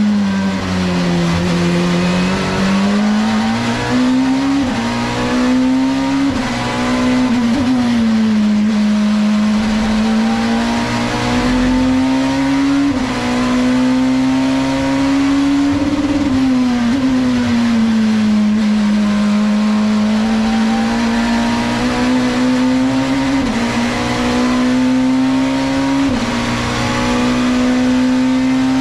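Nissan Primera Super Touring race car's engine at full racing pace, its note climbing and dropping again and again as it accelerates, brakes and shifts gear, with sharp steps in pitch at the gear changes.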